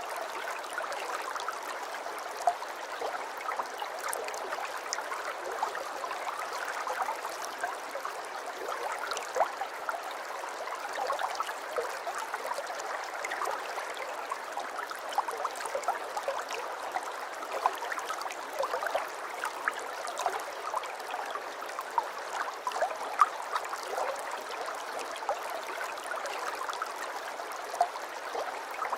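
Aquarium water trickling and gurgling, a steady flow with many small drops and splashes scattered through it.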